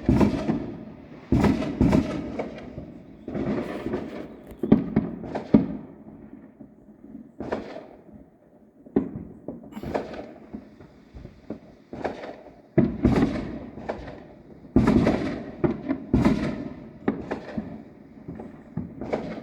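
Fireworks going off in a dense, irregular string of booms and bangs, a dozen or more, each trailing off briefly, some overlapping.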